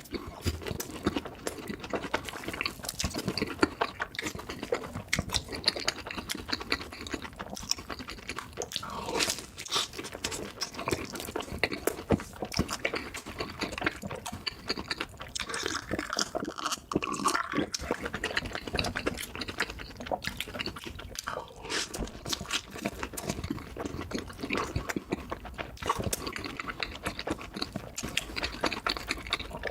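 Close-miked eating sounds of a mukbang: wet chewing with dense, irregular clicks and smacks of the mouth, sped up to double speed.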